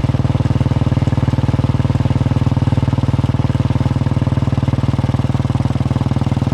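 Royal Enfield Bullet 350's single-cylinder engine running at a steady, even thump, the beat holding without any rise or fall in pitch.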